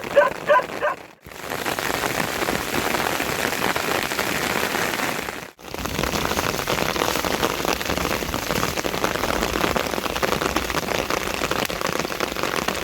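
Heavy monsoon rain falling steadily. A dog barks a few quick times in the first second. The rain cuts out very briefly twice.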